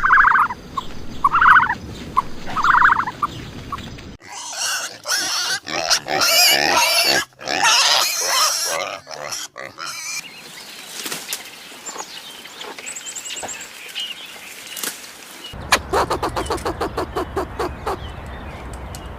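Farm animals calling in a run of short clips that change abruptly. The loudest part is a few seconds of pigs squealing shrilly. Before it come repeated short pitched calls, and near the end a rapid, regular pulsing call.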